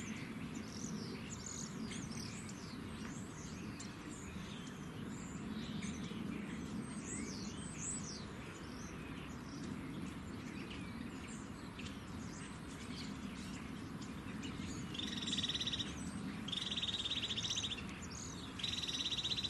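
Small garden birds chirping and calling, with many short high notes and, near the end, three loud rapid trills about a second each, over a steady low background rumble.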